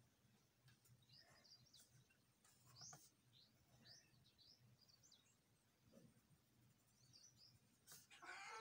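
Near silence with faint bird chirps, many short rising and falling chirps. Near the end comes a louder pitched call with several stacked tones.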